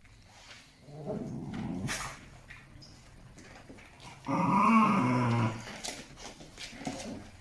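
Dog growling in play, in several rough bouts, with a longer, louder growl a little past halfway.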